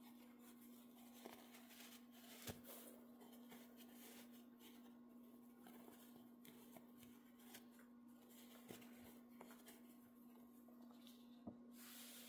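Near silence: a steady low electrical hum with faint scattered clicks and taps, and a brief rustle near the end.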